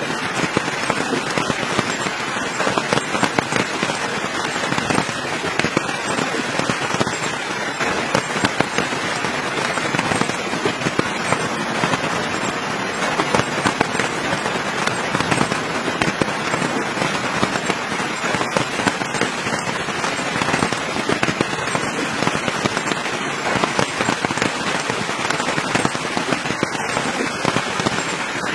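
Wood campfire crackling steadily, with a dense run of small pops and snaps.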